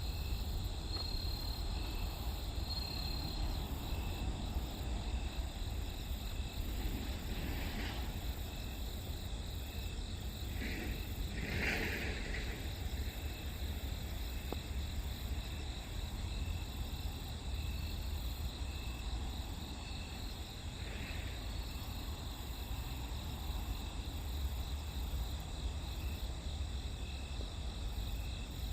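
Grass insects (crickets) calling: a steady high trill with a shorter chirp repeating about once a second, over a constant low rumble.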